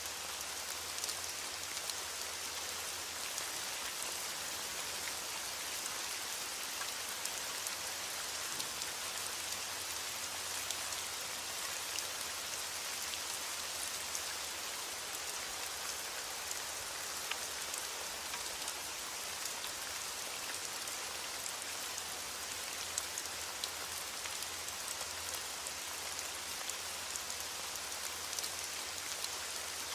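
Heavy rain falling steadily on a window, a continuous hiss with many small scattered drop ticks.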